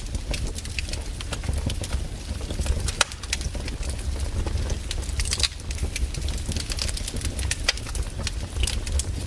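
Campfire burning, the wood crackling with many irregular sharp pops, over a low steady rumble.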